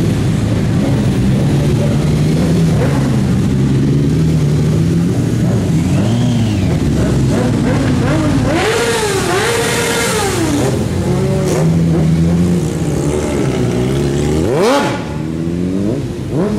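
Many motorcycle engines revving at once under a parking deck, several engines climbing and falling in pitch over one another. The revving is at its harshest in the middle, and near the end one engine is blipped sharply up and back down.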